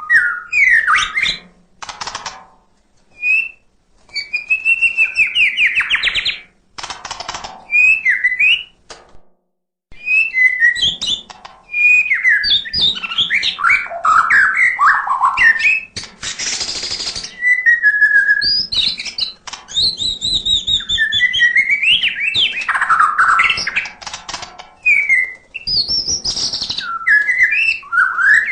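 White-rumped shama (murai batu) in full song: a fast, varied string of sweeping whistles, quick chirps and short harsh rattles, packed with mimicked phrases, with only brief pauses.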